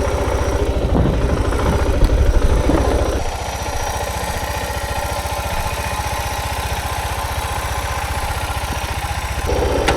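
Suzuki DR650's single-cylinder engine running with a steady low pulse while under way. The sound drops about three seconds in and picks up again near the end.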